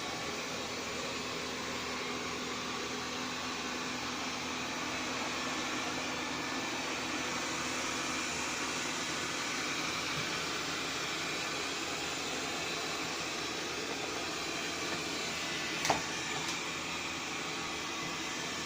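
Xiaomi Mi Robot Vacuum-Mop P running with a steady whirr, with one sharp click late on.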